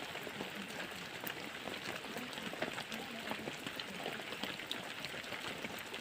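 Rain pattering steadily, a dense spread of small irregular drop ticks.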